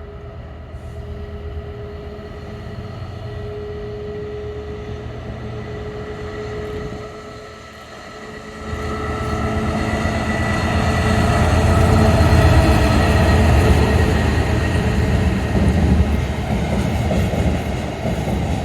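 Class 66 diesel-electric freight locomotive, with its two-stroke V12 diesel engine, passing with its train. The engine note is steady for the first several seconds, then grows much louder and deeper from about nine seconds in, as the locomotive comes by under power.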